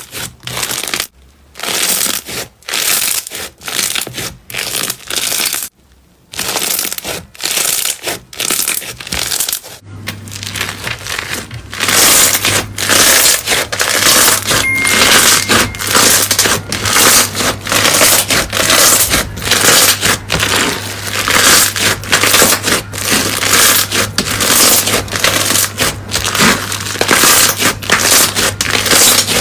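Slime being squeezed and pressed by hand, crackling and crunching in quick, uneven strokes. About ten seconds in the strokes become denser and a low hum joins them.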